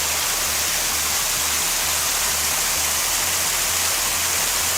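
Rain curtain on a pergola: water pouring in a steady sheet from an overhead manifold, a continuous even rush of splashing water.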